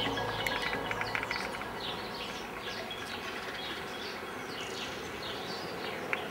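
Small birds chirping, short repeated calls several times a second, over a steady outdoor background hiss.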